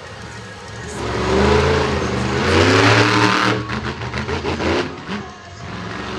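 Monster truck engine revving hard, its pitch climbing and falling as the throttle is worked. About halfway through comes a quick run of sharp pops, then the engine drops off briefly and builds again.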